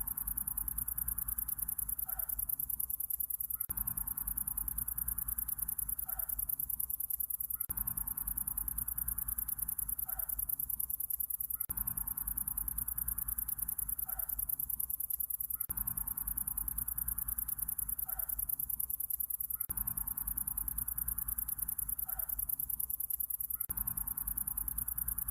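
Looped summer-night nature ambience: a steady, fast-pulsing high trill runs throughout, with a lower sound that rises for about two seconds and drops away, repeating every four seconds.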